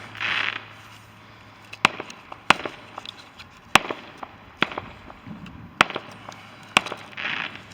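Small fireworks going off: a short hiss at the start, then a string of sharp, separate bangs about once a second.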